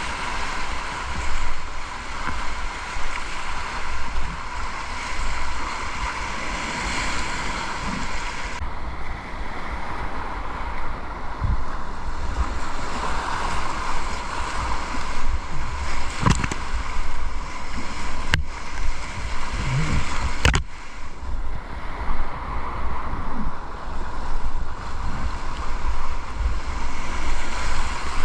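Fast river water rushing steadily, with wind buffeting the microphone. Three sharp knocks stand out in the second half.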